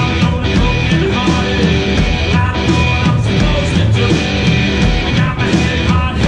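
A rock-blues band playing live, with electric guitar, bass and drums over a steady beat.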